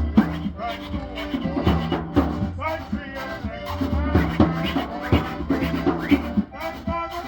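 Rake 'n' scrape band playing Bahamian dance music with a steady beat and a bass line.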